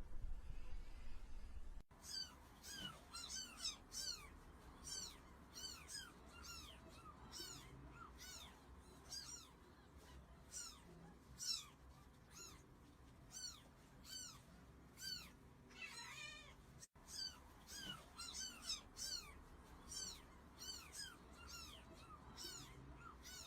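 Cat meowing: short, high-pitched meows repeated rapidly, about one to two a second, with a brief break partway through.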